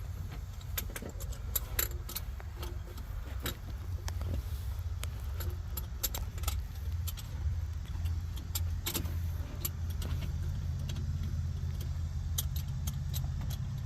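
An engine idling steadily as a low hum, with scattered light metallic clinks and ticks over it.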